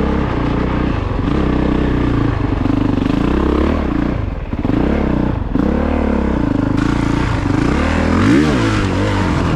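Honda CRF450RX's 450 cc single-cylinder four-stroke engine revving up and down repeatedly as the dirt bike pushes through a deep, muddy section. The throttle comes off briefly about halfway through.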